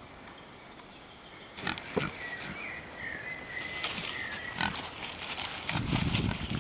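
Crackling rustle of an animal moving through undergrowth, with a thin high whine held for about two seconds, then snuffling grunts close by near the end.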